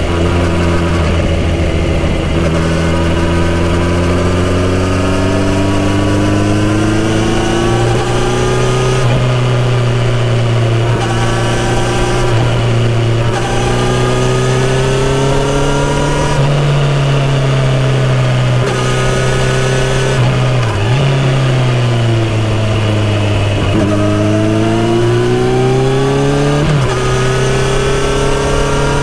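Kawasaki Z900RS inline-four motorcycle engine through a full-system exhaust, riding under way: it pulls up in pitch and drops at each upshift, several times over. About two-thirds of the way through it falls in pitch as the bike slows, then picks up and accelerates again.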